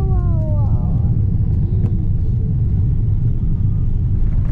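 Steady low vehicle rumble. A brief voice is heard in the first second.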